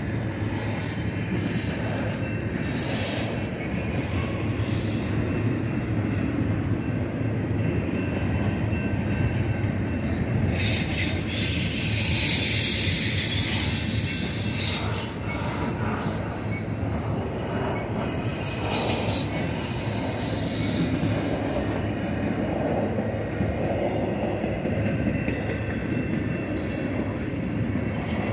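Double-stack container train's well cars rolling past on a curve: a steady rumble of steel wheels on the rails. A high, hissing wheel squeal swells for about three seconds near the middle.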